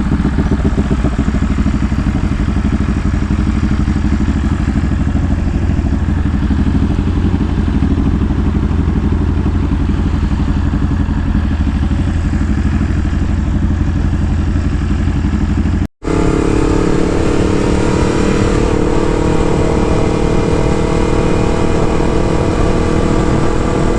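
Motorcycle engine running steadily while riding. The sound cuts out for a split second about two-thirds of the way through, then resumes as a steadier, higher-pitched engine drone.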